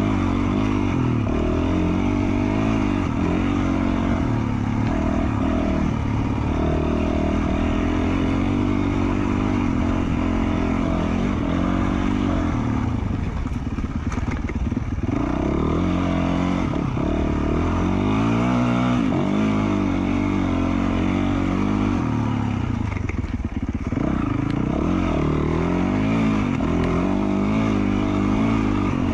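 2020 Yamaha YZ450F dirt bike's single-cylinder four-stroke engine, through an FMF Q4 slip-on muffler, running hard under load. Its pitch climbs and falls over and over as the throttle is opened and closed and gears change, with a few short drops when the throttle is let off.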